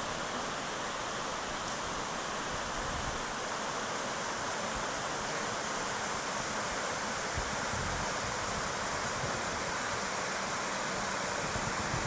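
Steady, even rushing noise, with no clicks, knocks or crackle.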